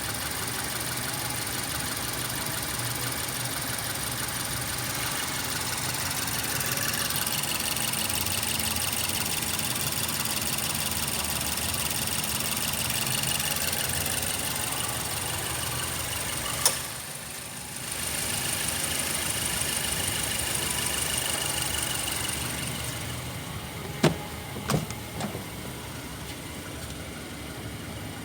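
Mazda CX-7 2.3-litre turbocharged MZR DISI four-cylinder engine running steadily. A sharp click about 17 s in, with a brief dip in level, and a few sharp knocks around 24 s in.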